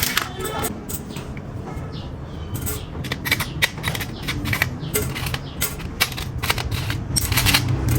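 Irregular clicks and taps of small metal parts and hand tools being handled, over a low steady hum.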